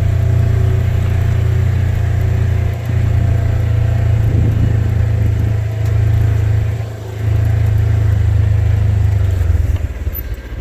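A vehicle's engine running as it drives slowly, easing off briefly a few times. Near the end it settles into an even idle.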